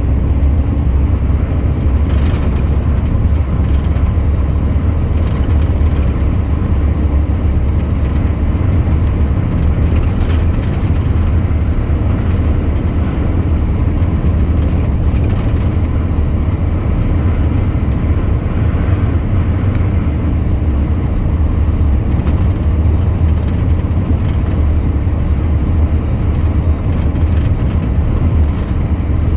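Truck on the move: a steady low engine drone mixed with road and tyre noise, unchanging throughout.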